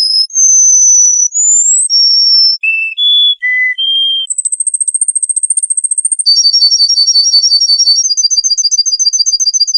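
Songbird singing: a string of pure whistled notes held for about half a second each, jumping between high and lower pitches with one rising note, then a fast trill of about nine notes a second through the second half.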